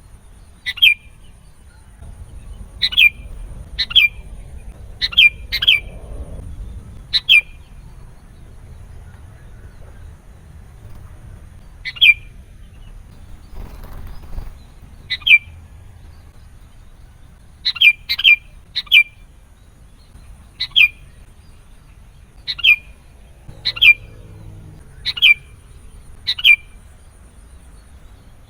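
Sooty-headed bulbul giving short, sharp call notes that each drop quickly in pitch. They come singly or in quick pairs a second or so apart, with a pause of a few seconds near the middle.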